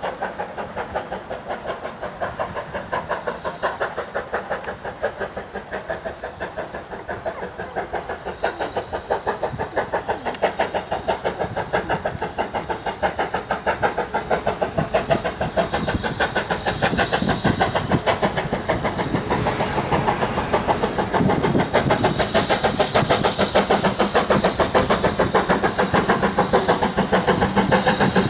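Steam locomotive working under power, its exhaust beating in a rapid steady rhythm that grows louder as it approaches, with hiss building over the second half.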